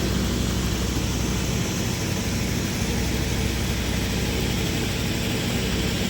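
An engine running steadily at idle under a loud, even hiss, with no change through the shot.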